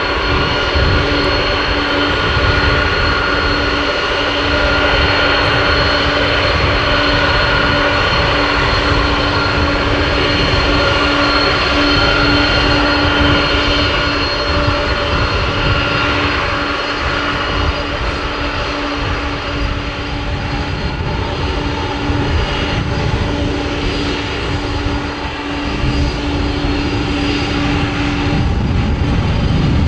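Boeing 747-400 freighter's jet engines running steadily, a loud rush with a steady whine over a low, wavering rumble.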